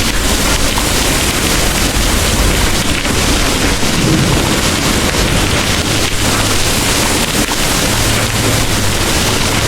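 Heavy rain pouring steadily, a dense even hiss, with a low rumble underneath.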